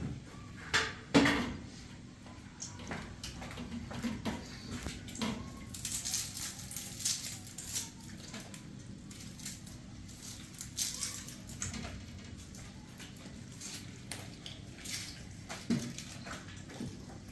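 Intermittent clatter: scattered sharp clicks and knocks of hard objects being handled, the loudest about a second in.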